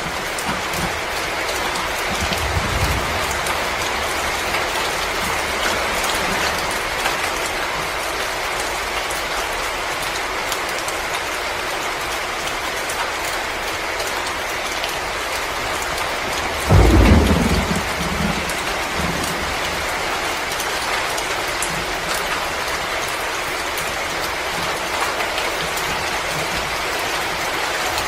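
Fireplace fire crackling and hissing as a dense, steady crackle. A sudden deep rumble comes about seventeen seconds in and dies away within a second or so.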